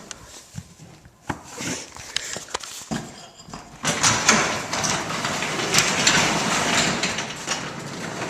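A few knocks, then from about four seconds in a sectional steel garage door rolling by hand on its steel rollers in the track, rattling, with the opener disconnected for a balance test.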